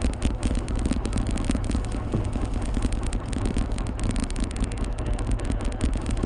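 A fishing boat's engine running steadily, with a fast, irregular clatter of clicks over it.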